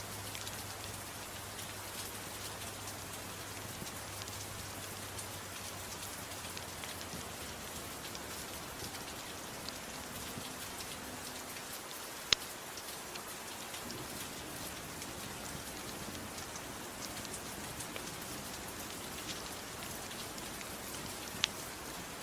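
Steady soft rain with scattered small crackles and a couple of sharp louder pops, about twelve seconds in and near the end, like a wood fire crackling.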